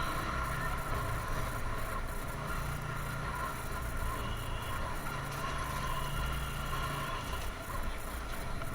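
TVS Apache RTR 160's single-cylinder engine running steadily as the motorcycle rides along, with wind and road noise; the engine note shifts up and down a little with the throttle.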